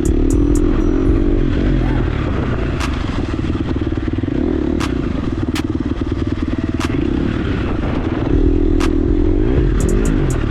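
KTM 350 dirt bike's four-stroke single-cylinder engine running under way, its pitch rising and falling with the throttle, with scattered sharp clicks and clatter over the top.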